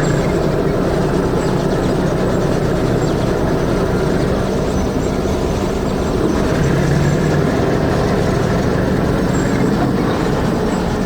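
Heavy vehicle engine running steadily, cutting in suddenly as a loud, even rumble.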